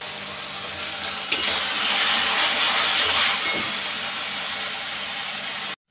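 Onion-and-spice masala sizzling in hot oil in a steel wok, a loud steady hiss that swells in the middle, with one sharp tap about a second in. It cuts off abruptly just before the end.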